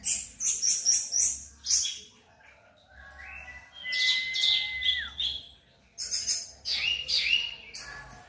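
Orange-headed thrush singing in bursts of varied, fast phrases with short pauses, including one held whistle that drops sharply at its end about five seconds in.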